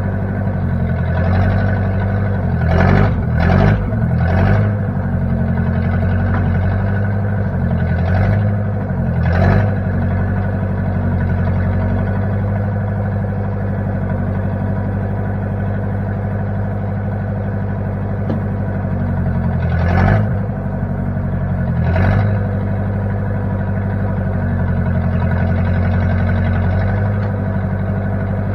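Engine of a 1960 Case 540 tractor-loader-backhoe running steadily, its note swelling briefly several times, about a handful of short rises spread through.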